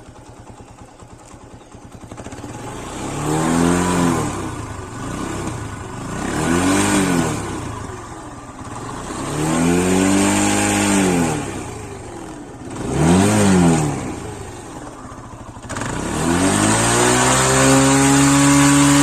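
TVS Apache RTR 180 motorcycle's single-cylinder engine and exhaust idling, then revved four times, each rev rising and falling in pitch. Near the end it is revved again and held high for several seconds.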